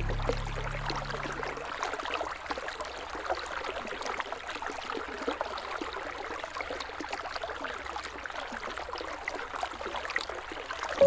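Flowing river water, a steady babble with small splashes and trickles through it. The low tones of background music fade out in the first two seconds.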